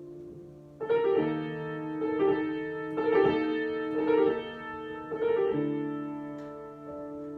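Piano played slowly in an improvisation: chords struck one after another, each held with sustain and left to ring out.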